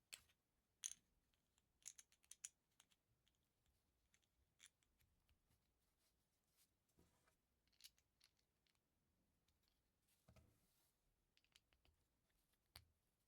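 Plastic LEGO bricks being handled and pressed together: faint, sharp clicks and small rattles at irregular intervals, with a quick cluster of several clicks about two seconds in.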